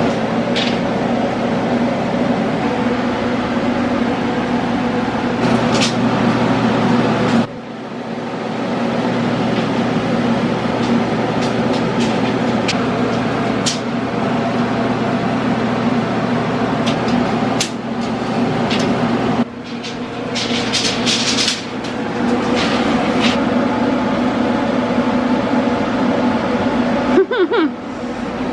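A steady motor drone, broken off abruptly a couple of times, with sharp knocks and clatters over it.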